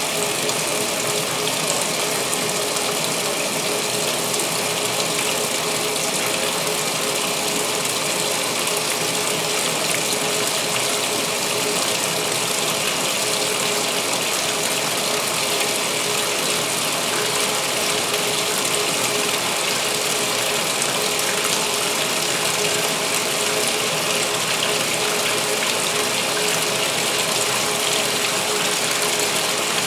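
2016 Speed Queen top-load washer filling for the main wash: water pours steadily into the tub, with a faint steady hum under it.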